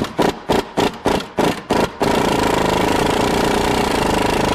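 Handheld power tool working a bolt: about seven short trigger bursts in the first two seconds, then one steady run of nearly three seconds that stops suddenly near the end.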